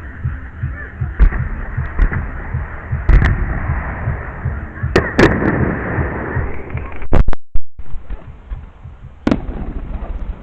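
Fireworks bursting in quick succession: a steady run of deep booms and sharp bangs with crackling between them, the loudest shells about three, five and seven seconds in.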